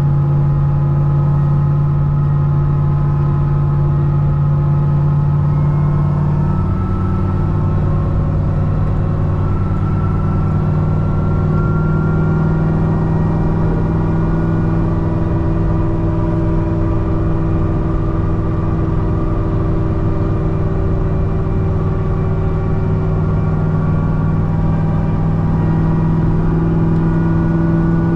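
C6 Corvette ZR1's supercharged V8 running steadily at highway cruise. Its pitch steps up slightly about six or seven seconds in, then holds.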